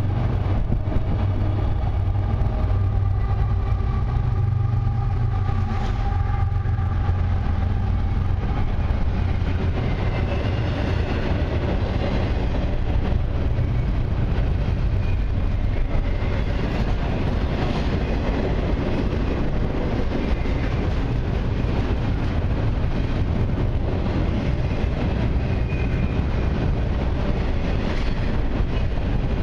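Long freight train of autorack cars rolling slowly past: a steady rumble and clatter of steel wheels on the rails.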